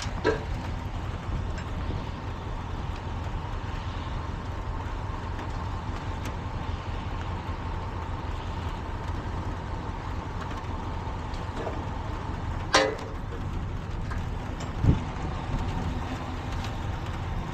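A vehicle engine idles steadily with a low rumble and a faint steady whine above it. A few sharp knocks break through, the loudest about 13 seconds in.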